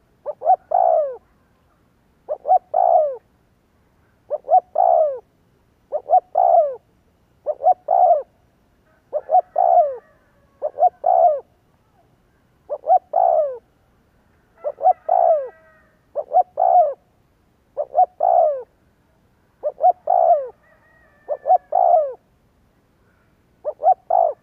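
Spotted dove cooing over and over: short phrases of two or three notes, each ending in a falling slur, repeated about every one and a half to two seconds.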